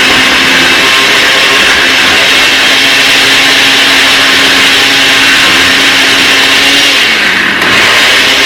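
Countertop blender running, blending a thick cucumber sauce of sour cream, mayo, cucumber and garlic. The motor hums steadily, slows briefly about seven seconds in, then picks back up to speed.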